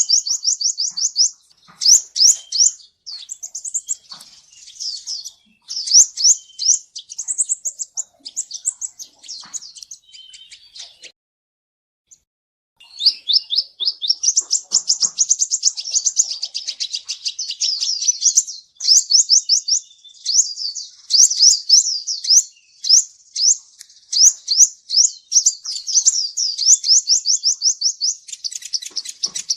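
Sunbird of the kind kept as 'kolibri ninja' singing: rapid, very high chittering trills of quick repeated notes in bursts, with a brief pause about halfway through before the song resumes continuously.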